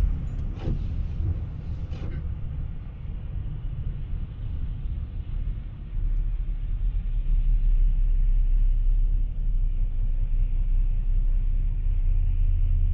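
Steady low road rumble of a car being driven at highway speed, heard from inside the car, getting louder about six seconds in.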